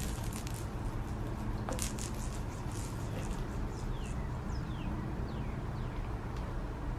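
Faint rattles and soft knocks from a cat batting the dangling pom-pom rattle toys of a sherpa cat play post, over a steady low hum. A few short, high chirps, each falling quickly in pitch, come about four to six seconds in.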